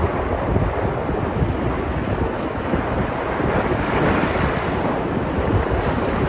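Sea surf washing onto the shore, a steady rush that swells as a wave breaks about four seconds in, with wind buffeting the microphone.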